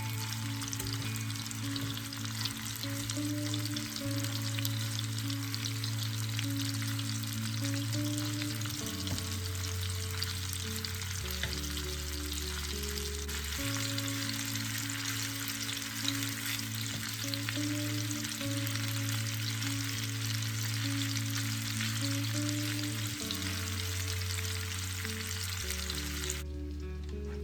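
Food frying in hot oil, a steady crackling sizzle that cuts off about a second before the end, over soft background music with sustained low notes.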